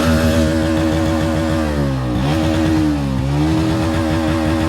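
Motorcycle engine running under throttle while riding, its pitch dipping twice and climbing again.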